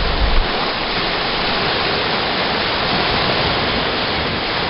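Steady rushing of water, an even hiss with no breaks or swells.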